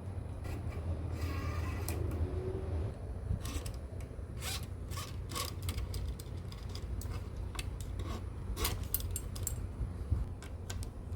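Small parts and tools being handled during bicycle assembly: a short zip-like rasp about a second in, then scattered sharp clicks and taps, over a steady low hum.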